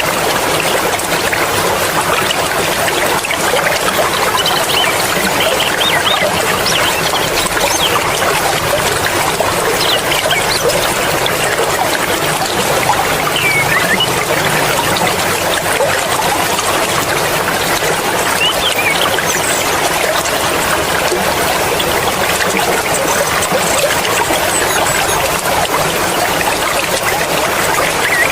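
Mountain stream water flowing and splashing in a steady, unbroken rush.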